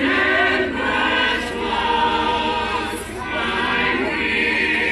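A choir singing, many voices together holding long notes.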